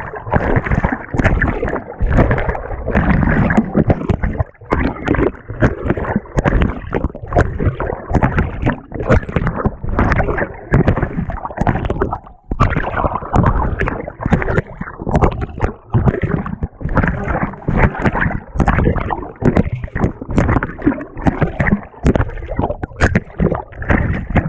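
Water and laundry churning and sloshing in a GE GTW220ACKWW top-loading washing machine as its agitator works, heard from a camera mounted on the agitator in the water. It comes as a continuous, rapid run of irregular surges.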